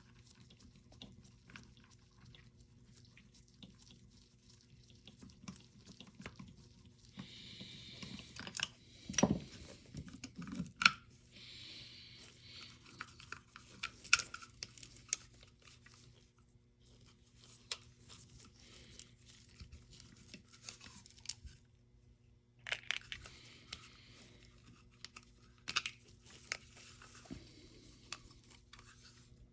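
Hands handling airsoft rifle parts: scattered light clicks, a few sharper knocks and bouts of scraping and rustling as the pistol grip is worked off the gearbox and parts are set down.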